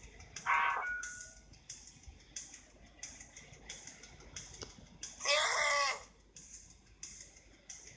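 Two short, high-pitched cries, the second longer than the first, over faint background ticking and hiss.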